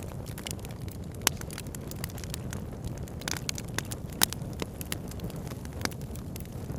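Campfire crackling with many small snaps and a few sharper pops, the loudest about a second in and about four seconds in, over the steady low rush of a river.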